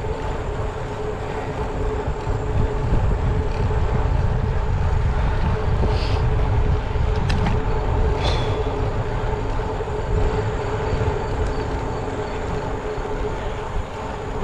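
Steady wind rush on the microphone and road noise of a bicycle riding along, with a steady hum running through it.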